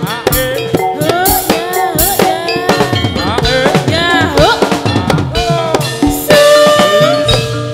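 Live accompaniment for a gedruk / topeng ireng dance: drums struck in a fast, busy beat under a melody that slides up and down, over a steady held note.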